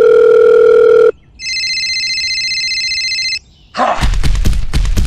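Telephone call sound effects: a loud steady beep tone cuts off about a second in, then a higher electronic phone ring sounds for about two seconds. Near the end a loud noisy burst with a low rumble comes in.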